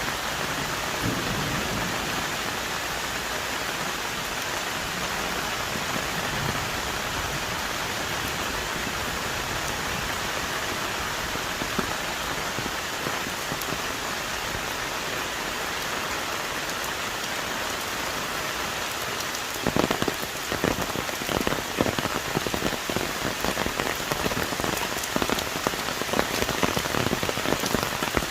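Heavy rain falling on rainforest trees, a steady hiss. About two-thirds of the way through, big drops start hitting close by in a dense, louder patter.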